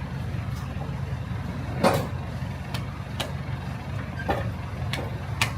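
Truck engine idling with a steady low rumble, with a few sharp knocks and clicks over it, the loudest about two seconds in.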